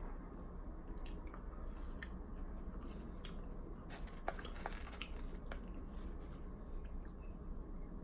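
Close-up eating sounds: chewing french fries, soft wet mouth sounds with scattered small clicks, a few of them bunched about halfway through.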